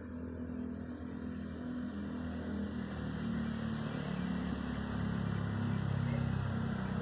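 A motor vehicle's engine, running and growing steadily louder as it draws near.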